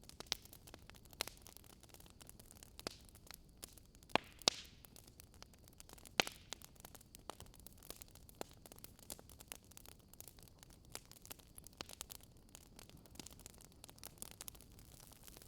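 Burning firewood crackling: scattered sharp pops and snaps at irregular intervals over a faint steady hiss, with a couple of louder pops about four and six seconds in.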